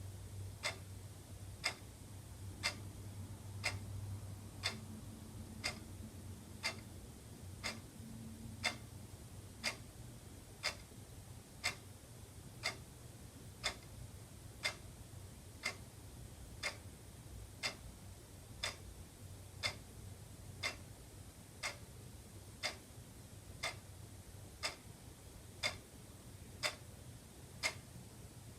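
Wall clock ticking steadily, about two ticks a second.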